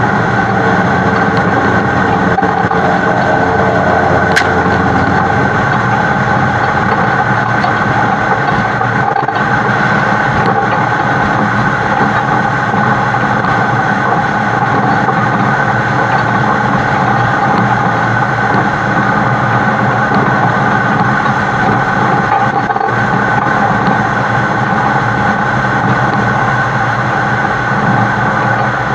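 A heavy truck hauling an oversized super load, heard from a camera mounted on the truck's side: a steady mix of diesel engine drone and road noise while it drives.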